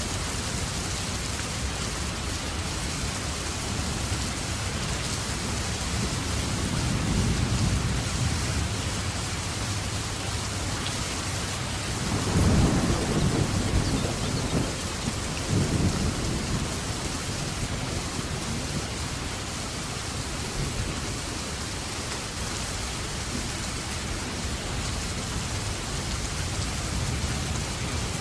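Steady rain falling, with rumbles of thunder: a low one about a quarter of the way in and a louder, rolling one near the middle.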